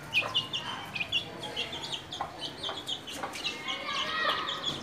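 Pet birds chirping: many short, high, falling chirps in quick succession.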